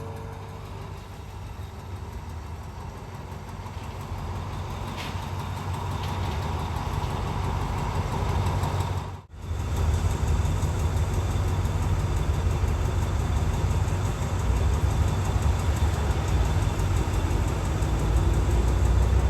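Diesel train engine running with a steady low rumble that grows louder over the first half. About nine seconds in the sound drops out for a moment, then the rumble comes back louder and deeper.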